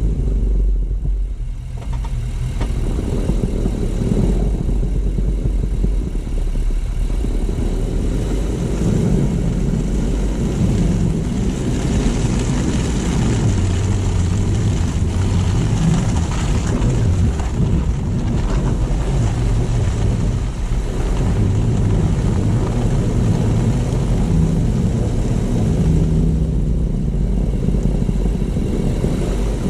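Car driving along a road: steady engine rumble and tyre noise, with a brief dip in loudness about two seconds in.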